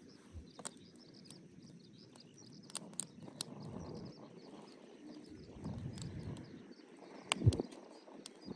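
Faint outdoor ambience with birds chirping, scattered light clicks, and one louder knock about seven and a half seconds in.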